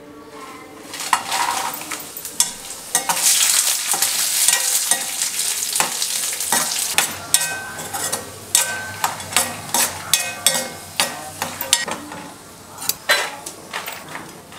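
Dried red chillies, garlic and chopped coconut sizzling as they fry in hot oil in a stainless steel pan. The hiss is strongest in the first half, while a metal spatula scraping and clinking against the pan as it stirs gives sharp clicks throughout, thickest in the second half.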